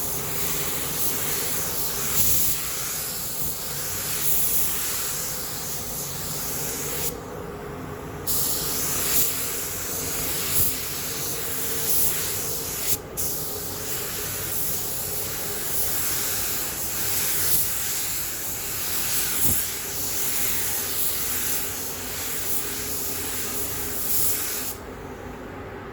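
Compressed-air spray gun spraying clear coat onto a motorcycle gas tank, a steady hiss held in long passes. It stops for about a second around seven seconds in, breaks off briefly again near thirteen seconds, and cuts off shortly before the end.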